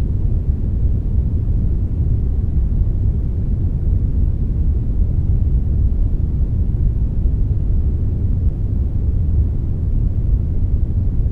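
Hybrid brown and white noise: a steady, even hiss weighted heavily toward the bass, with no change in level or texture.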